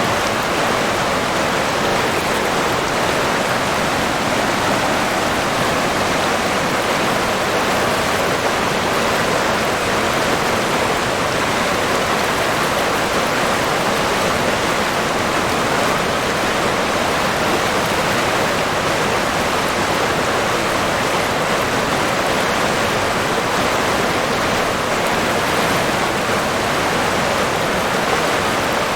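River water rushing steadily over rocks, an even, unbroken flowing noise.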